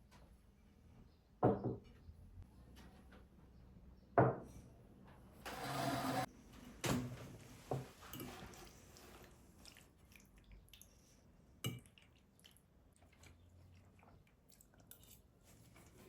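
Household handling sounds: several sharp knocks of objects set down on a hard surface, and a short rush of water or liquid about five and a half seconds in.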